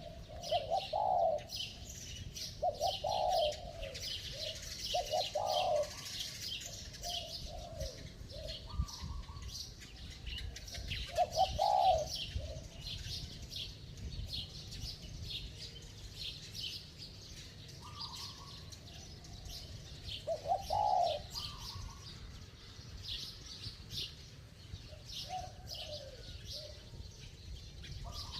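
Spotted dove cooing in short low phrases every few seconds, over steady high chirping from small birds.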